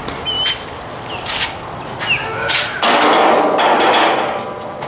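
A series of sharp knocks and clanks as the aluminum solar-panel rack and ladder are handled, with a louder rushing noise lasting about a second and a half near the end.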